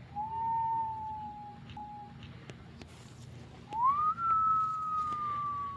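A person whistling two long notes: the first held and slowly falling, the second sliding up about four seconds in and then slowly falling away.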